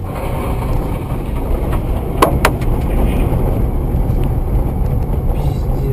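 Steady low vehicle rumble of engine and road noise, with two sharp clicks a quarter of a second apart about two seconds in.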